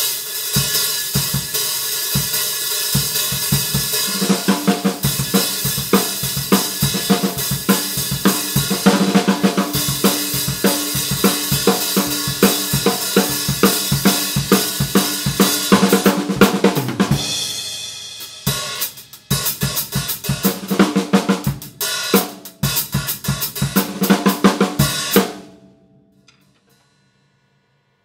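Drum kit playing a groove on Paiste 14" Sound Creation Dark Heavy Sound Edge hi-hats, with snare and bass drum, under a dense cymbal wash. The playing thins out about two-thirds of the way through, then stops suddenly and the cymbals ring out briefly.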